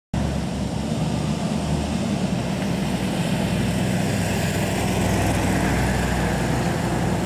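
The 302 cubic-inch V8 of a 1974 Glassic Model A replica roadster running steadily at low speed as the car drives slowly past, a steady low rumble.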